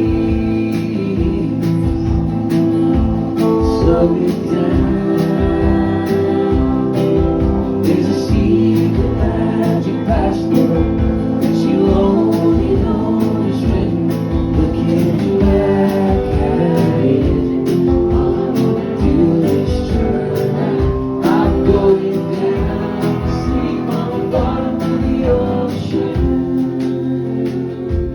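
Live alt-country/folk band music: guitars over a steady beat about twice a second.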